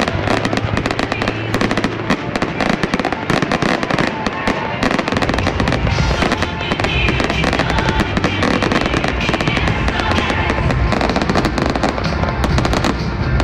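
Fireworks display in full barrage: a rapid, unbroken run of shell bursts and crackling, with music playing beneath.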